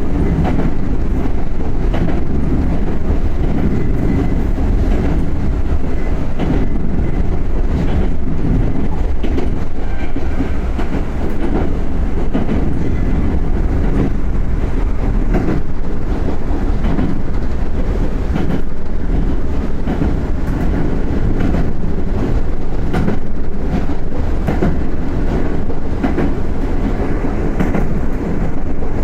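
Running sound heard from inside a Yoro Railway 7700 series motor car (ex-Tokyu 7700) while under way: a steady, loud low rumble of wheels and motors on the track. Scattered clacks of the wheels over the rails come through it.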